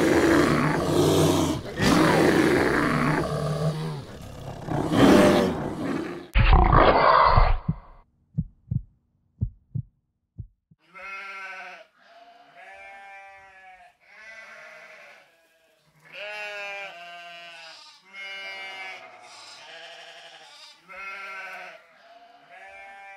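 Polar bears growling and grunting as they play-fight, with a heavy low thump about six seconds in and a few short knocks after it. Then ibex bleating: a string of pitched calls about a second long each, rising and falling in pitch.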